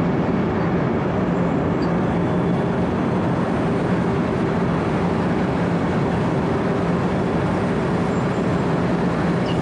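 Wirtgen W 120 CFi asphalt cold milling machine running steadily while milling the road surface: a constant, heavy machine drone with a steady hum under a dense rough noise, unchanging throughout.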